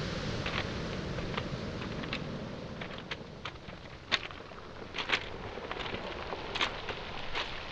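Footsteps on beach pebbles and small boulders, the stones clicking and clacking underfoot at an irregular walking pace, over a steady low wash of waves on the shore.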